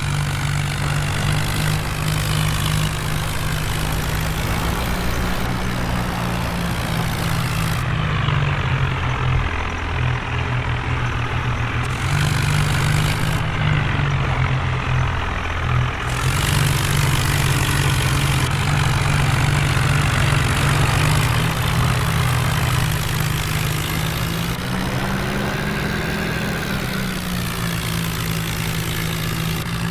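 Heavy diesel engine running continuously, its speed rising and falling slightly, with a noticeable rise in revs about 25 seconds in.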